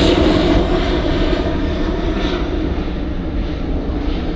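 UPS Boeing 767-300 freighter's jet engines at takeoff power as it departs: a loud, low rumble that slowly fades.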